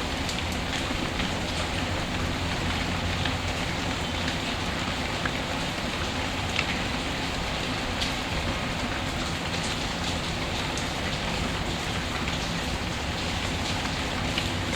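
Steady rain ambience: an even, continuous hiss of rainfall with scattered small ticks and clicks through it.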